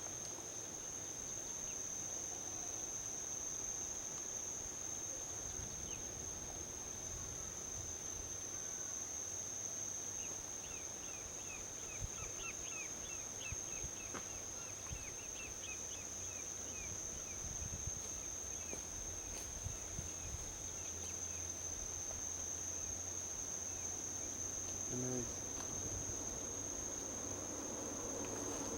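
Steady high-pitched trilling of crickets, with a faint low rumble of distant highway traffic underneath. About a third of the way in, a bird gives a rapid run of short chirps for several seconds.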